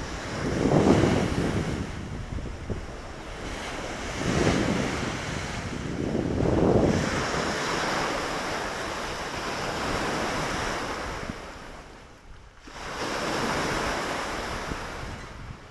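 Lake Victoria waves breaking and washing onto the shore in surges a few seconds apart, then a longer wash with a short lull near the end, with wind on the microphone.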